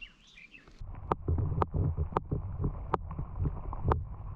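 About five sharp, irregular knocks or clicks over a steady low rumble, with faint high chirps in the first second.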